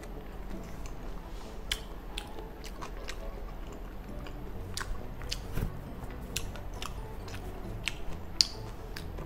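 Close-up chewing and wet mouth sounds of someone eating gopchang (seasoned intestine) fried rice, with sharp clicks scattered through, the loudest near the end.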